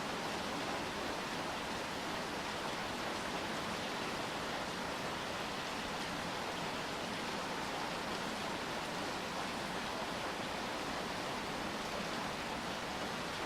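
Steady rain falling, an even, unbroken hiss with no separate drops standing out.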